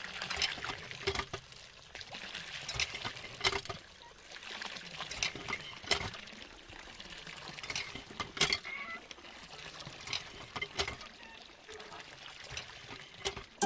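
A pouring, trickling sound with scattered irregular clicks and taps.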